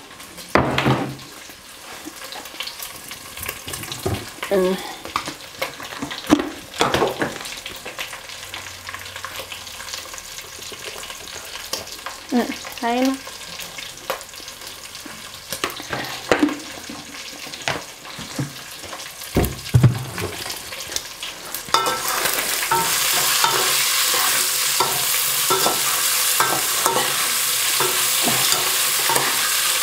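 Dried omena sardines and sliced onions frying in an aluminium pot, with a metal spoon scraping and clinking against the pot as they are stirred. About two-thirds of the way in the frying turns into a steady, much louder sizzle.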